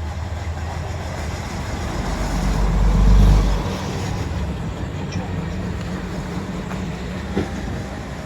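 Diesel engine of a Waggon und Maschinenbau railbus running steadily. It grows louder to a low peak about three seconds in, then eases back to a steady run.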